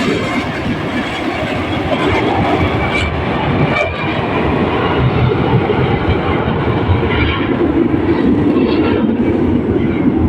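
Jet aircraft engine roar from the Black Eagles' KAI T-50B jets flying the display, a loud continuous rushing rumble that builds slightly in the second half.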